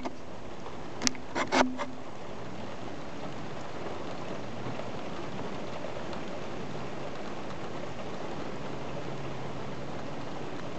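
Steady rain falling, an even hiss with no thunder heard. A couple of short, sharp sounds about a second and a half in stand out above it.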